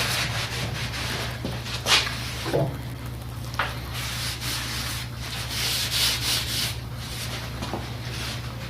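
Scratchy rubbing and scraping from hands working on the mower, with a few sharp clicks, over a steady low hum.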